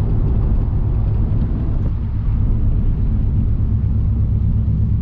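A Subaru WRX/STI's turbocharged flat-four engine running under way, heard inside the cabin as a steady low drone with road rumble.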